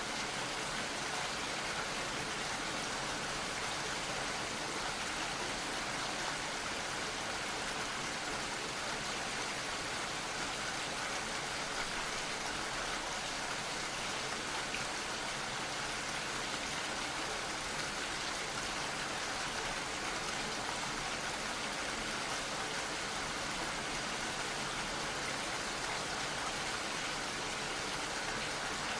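Gentle, steady rain falling, an even hiss of drops with no change in intensity.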